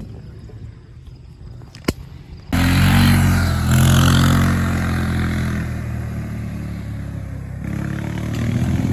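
Dirt bike engine comes in loud and suddenly about two and a half seconds in, revs up, then runs at a lower steady speed and picks up again near the end. Before it, a single sharp click.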